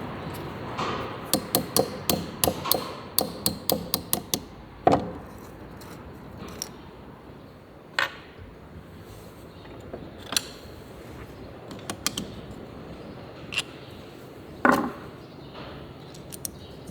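Hand tools knocking on metal engine parts: a quick run of about a dozen taps and clinks, a louder knock about five seconds in, then single knocks every second or two.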